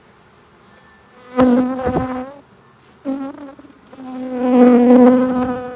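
Honeybees buzzing close to the microphone, each pass a loud hum of wingbeats with a slightly wavering pitch. Three passes come about a second and a half in, about three seconds in, and a longer one from about four seconds in.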